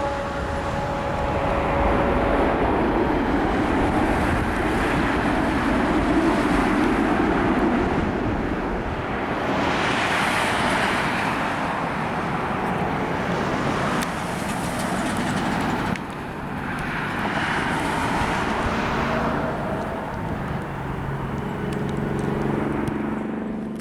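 Jet airliner engines running as a steady rumble and rush that swells and eases several times. A faint whine fades out in the first couple of seconds.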